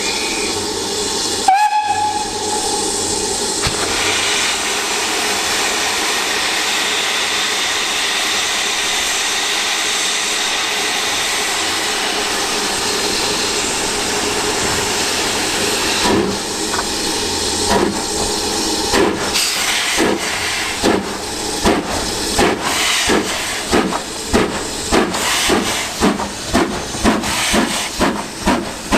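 Steam locomotive sounds its whistle, then steam hisses steadily. About halfway through, its exhaust beats start and quicken as it pulls away.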